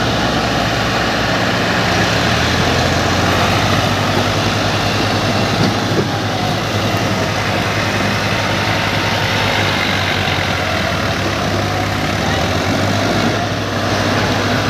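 Massey Ferguson 7250 tractor's diesel engine running steadily with a low, even drone; its note steps up slightly about two seconds in.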